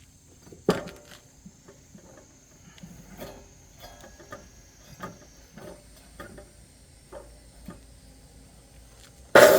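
Scattered light knocks and handling clatter, the loudest a knock about a second in. Near the end an electric cutting saw, its burnt-out motor coil rewound, switches on and runs loudly.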